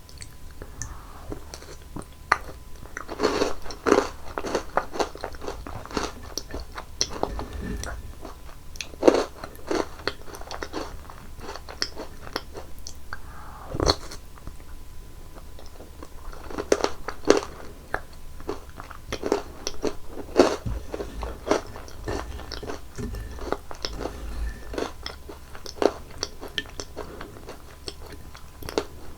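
Close-miked eating sounds: crunchy chocolate candies being bitten and chewed, in repeated bursts of crisp crunches with short pauses between mouthfuls.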